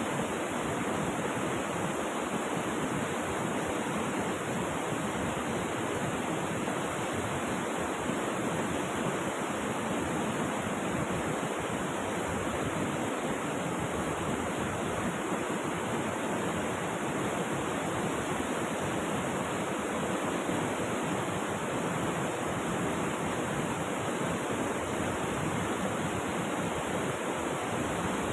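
Steady rush of flowing river water, an even, unbroken sound with no separate splashes or changes.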